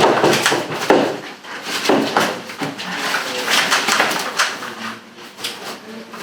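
Rustling, flapping and knocking as a long-eared owl struggles and resists being caught in its cage, with sharp clatters loudest near the start and about a second in.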